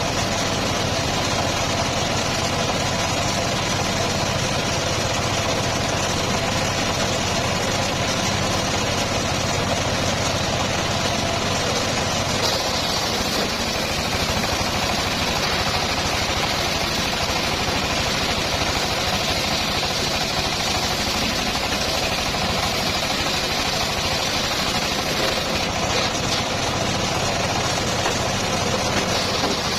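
An engine running steadily at a constant level. Its low hum shifts slightly about halfway through.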